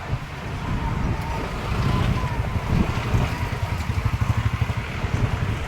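Low rumble of a moving vehicle with wind buffeting the microphone, pulsing unevenly in the second half.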